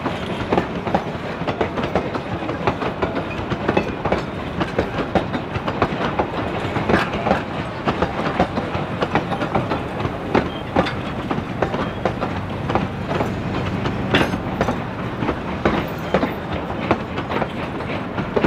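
Durango & Silverton narrow-gauge train rolling on the track, its wheels clicking and clattering over the rail joints with a steady rumble under many quick knocks.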